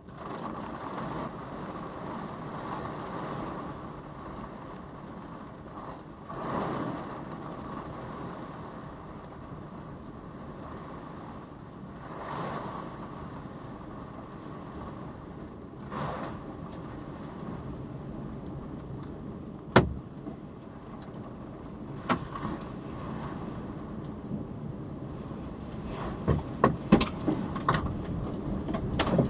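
Tornado wind rushing steadily and swelling in gusts, with sharp knocks from debris or objects being struck, coming more often near the end.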